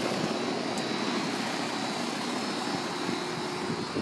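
Bryant central air conditioner's outdoor condenser running: a steady whoosh of the fan with a faint constant hum underneath.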